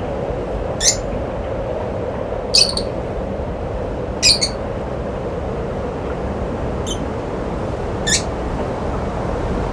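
A bird giving short, sharp, high chirps, about five of them spaced a second or two apart, one of them doubled. A steady low noise runs underneath.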